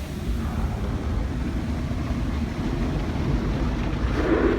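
Strong pre-soak water spray of an automatic car wash hitting the car, heard from inside the cabin as a steady rushing noise over a deep rumble. It grows louder near the end.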